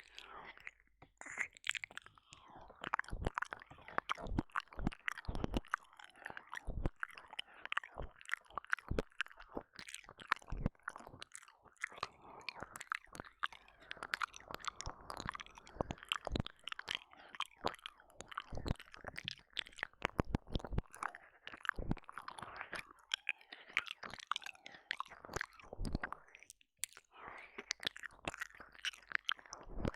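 Close-up ASMR mouth sounds: wet licking, smacking and mock chewing right at a binaural microphone's ear, a dense run of irregular wet clicks and pops.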